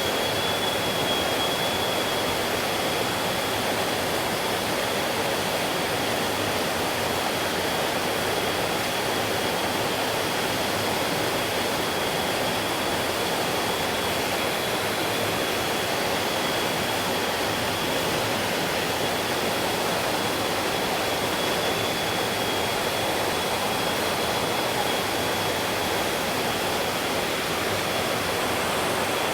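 Mountain stream rushing steadily over rocks, an even wash of water noise with a thin, steady high whine held above it.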